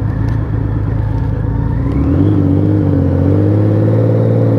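Honda Valkyrie 1500's freshly rebuilt flat-six Gold Wing engine running under way, picking up revs and getting a little louder about two seconds in.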